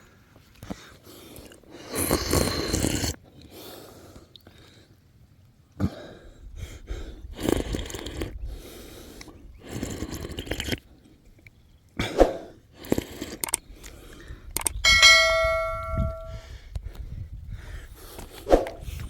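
Irregular rustling and knocking from things being handled, with one clear bell-like ring lasting about a second and a half near the end.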